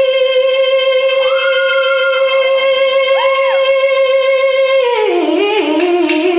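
A woman singing live, holding one long high note for about five seconds, then stepping down through a few lower notes near the end.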